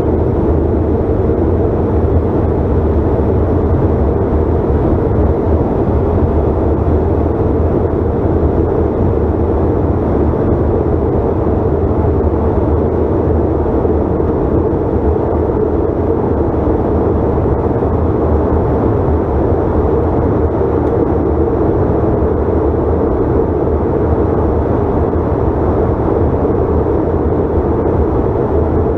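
Steady cabin drone of a Delta CRJ900 regional jet in flight: the rear-mounted turbofan engines and the airflow give an even, unchanging noise that sits mostly in the low range.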